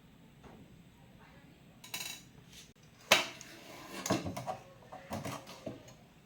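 Small hard objects clinking and knocking as they are handled, in an irregular scatter; the sharpest clink, about three seconds in, is the loudest.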